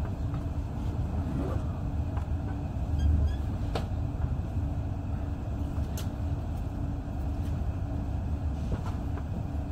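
Passenger train heard from inside the carriage while rolling slowly into a station: a steady low rumble with a steady hum, and a few sharp clicks.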